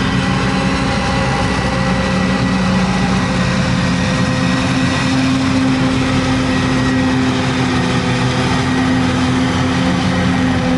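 Heavy diesel farm machinery at work chopping corn: a loud, steady engine drone with a faint steady higher whine over it, unchanging throughout.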